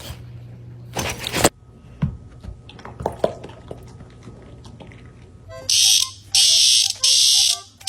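An alarm, of the smoke-alarm kind, sounds three loud shrill beeps of about half a second each, close together, near the end. Earlier, about a second in, comes a brief loud burst of noise.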